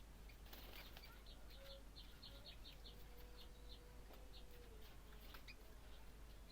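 Faint series of short, high chirps from a common iora (cipoh), coming quickest, about four a second, between one and three seconds in.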